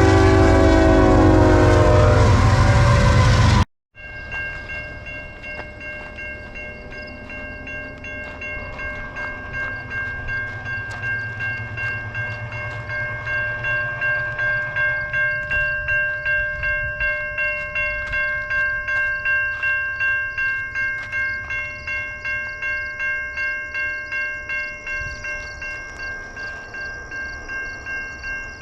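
A loud diesel passenger-train horn blast that cuts off abruptly. After it comes a steady ringing, about two strokes a second like a level-crossing bell, over a train's low rumble that builds and fades.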